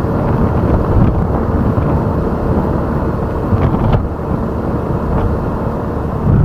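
Wind rushing over the microphone of a moving motorbike, mixed with engine and road noise, loud and steady.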